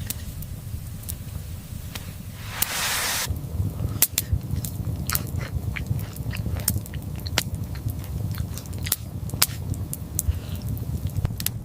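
A quick, irregular run of sharp clicks and crunches over a low steady rumble, with a short hiss about three seconds in.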